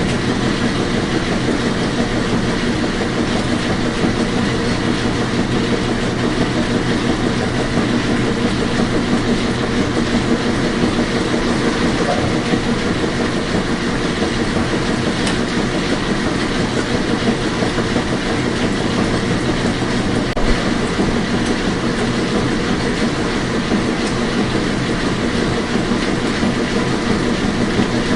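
Washing machine running, a steady rumble and swish with a constant motor hum and no change in level.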